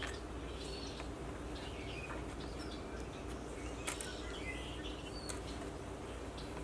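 Small birds chirping, short scattered calls, with a few sharp clicks and a steady low background hum.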